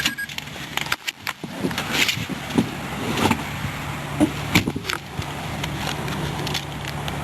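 A 2005 Nissan Pathfinder's engine shutting off about a second in, followed by a run of clicks, knocks and key jingles over a low steady hum.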